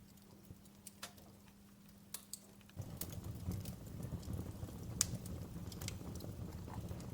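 Wood fire in a fireplace crackling, with scattered sharp pops and snaps. About three seconds in, a low rumbling noise comes in and the fire gets louder, with the loudest pop about five seconds in.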